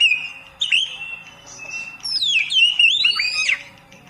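Oriental magpie-robin (kacer) singing: a varied run of clear whistled notes and fast up-and-down pitch sweeps. The phrases grow denser and louder in the second half, then stop shortly before the end.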